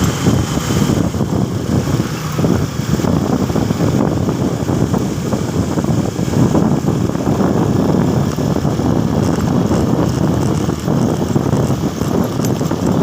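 Motorcycle running while under way, mixed with steady wind rumble on the microphone.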